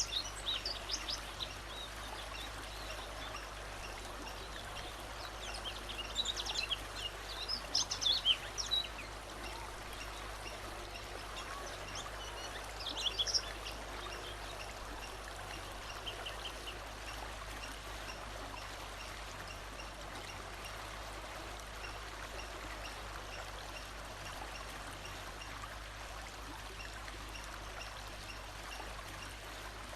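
Wild birds chirping and singing in short bursts, strongest just after the start, around 6 to 9 seconds and about 13 seconds in, over the steady rush of a running stream; the last half holds only the stream.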